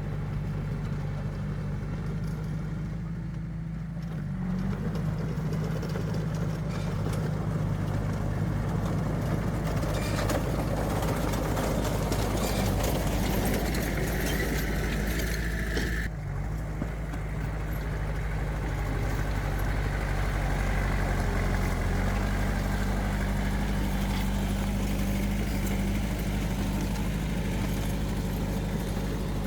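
Diesel engines of heavy earthmoving machines, dump trucks and a bulldozer, running steadily. A louder, rougher stretch builds about a third of the way in, with a thin high whine over it, and breaks off sharply a little past halfway before the steady running resumes.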